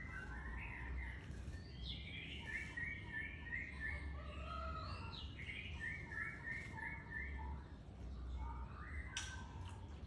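Male white-rumped shama singing: gliding whistles and two runs of about five quick repeated notes, over a steady low hum. A short noisy burst comes near the end.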